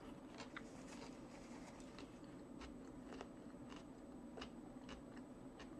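Faint chewing: a mouthful being eaten, heard as soft, irregular little clicks, over a low steady hum.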